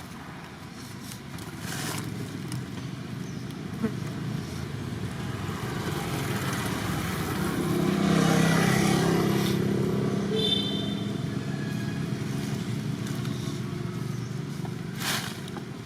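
A motor vehicle's engine passing by, growing louder to a peak about eight seconds in and then fading away.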